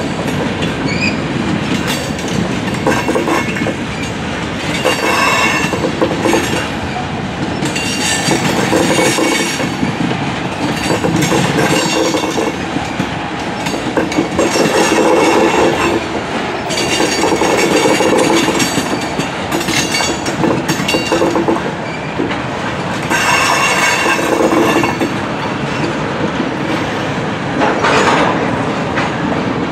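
Freight train rolling past: steel wheels clicking over the rail joints and cars rattling as open-top coal cars, then tank cars, go by. High wheel squeals come and go every few seconds.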